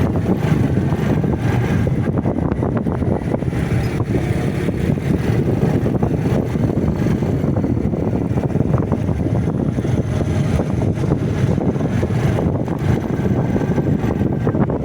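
Motorcycle riding along: wind buffeting the microphone over a steady, low rumble of engine and road noise.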